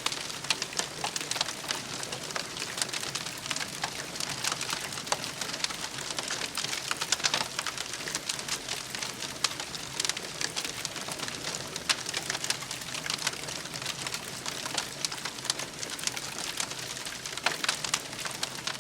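Campfire crackling: a steady hiss of burning wood dotted with many small, irregular pops and snaps.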